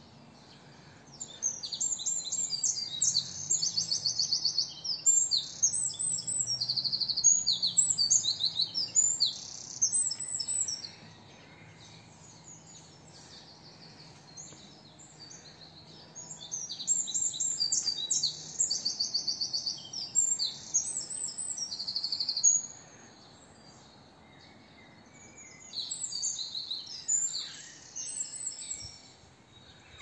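A songbird singing loud, high, fast-trilled songs in three long bouts: one starting about a second in and lasting some ten seconds, a second about halfway through, and a shorter one near the end.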